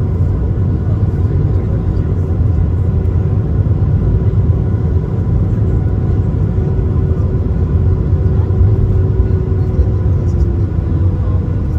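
Cabin noise of an Airbus A220 taxiing: a steady low rumble with a faint steady hum from its Pratt & Whitney PW1500G geared turbofans. One of the hum's tones sinks slightly near the end.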